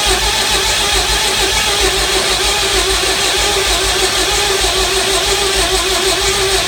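Murphy diesel engine being cranked over by its starter, with a steady whine and rhythmic low pulses from the compressions. It is still trying to start on starting fluid. The sound stops suddenly at the very end.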